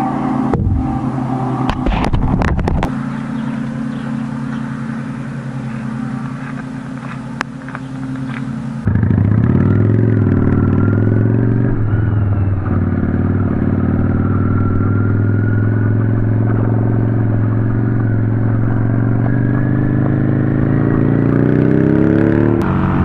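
A few clicks and knocks, then a motorcycle engine running steadily. About nine seconds in it gets suddenly louder as the bike rides off, the engine note climbing gradually with one brief dip, like a gear change.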